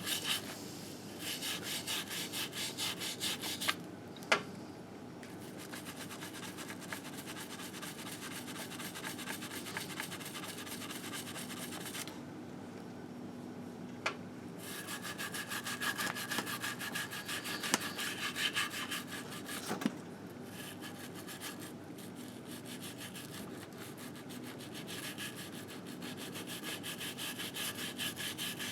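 Rapid back-and-forth scrubbing strokes on a Harley-Davidson Sportster engine case as caked-on grime is worked off, with two short pauses and a few sharp knocks.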